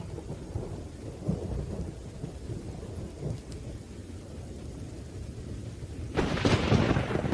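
Thunderstorm with rain: low, rolling thunder rumbling steadily, then a sudden loud, sharper thunderclap about six seconds in.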